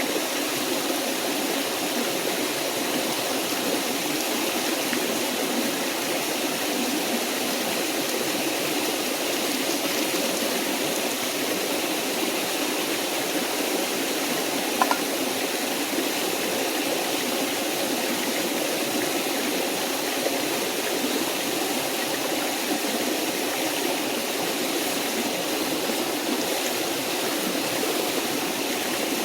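Small forest waterfall and stream rushing steadily, with a single sharp click about halfway through.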